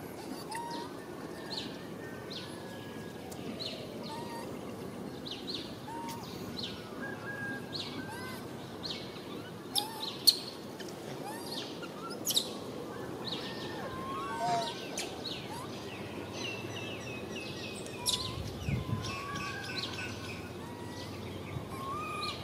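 Birds chirping in short calls repeated about once a second, over steady outdoor background noise. A couple of sharp clicks come about ten and twelve seconds in.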